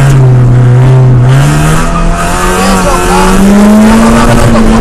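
Ford Fiesta 1.8 rally car's engine pulling hard, heard from inside the cabin. Its pitch dips briefly about a second and a half in, then climbs steadily.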